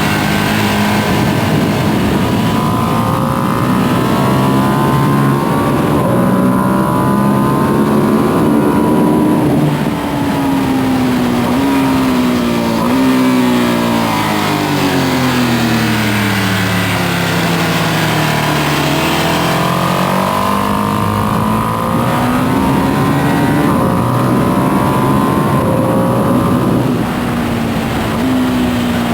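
2025 Ducati Panigale V2S's V-twin engine on its stock exhaust, ridden hard: it climbs in pitch under acceleration, falls in a series of stepped downshifts to a low point around the middle, then pulls up through the gears again with a shift near the end.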